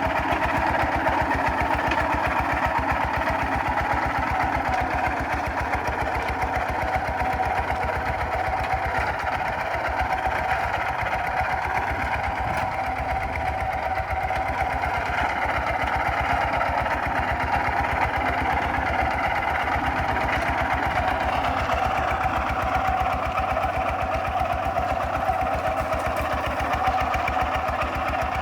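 Kubota RT 140 DI single-cylinder horizontal diesel engine of a walking tractor running steadily under plowing load, with a fast, even firing beat and no change in speed.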